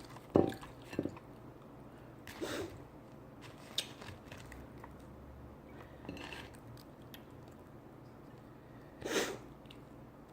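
Close-up mukbang eating sounds: biting and chewing a corned beef sandwich on toasted bread. Scattered small clicks and a few short crunchy bursts, the loudest a sharp knock just after the start.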